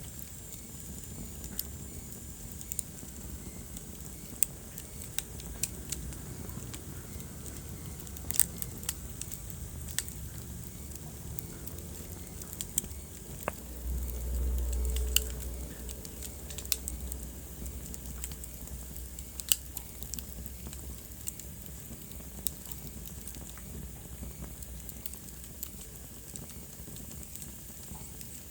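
Wood fire burning in a fireplace, crackling with irregular sharp pops and snaps over a low rumble. About halfway through the rumble swells louder for a couple of seconds.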